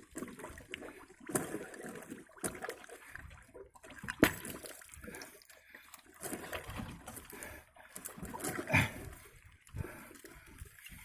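Water sloshing and splashing in irregular bursts, with a few sharp knocks, as a beaver trap with a beaver caught in it is hauled out of the water.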